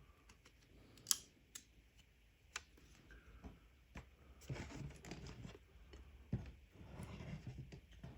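Hand work on a small LCD display panel: a few sharp clicks and taps, the loudest about a second in, then two bouts of rubbing or scraping near the middle and near the end.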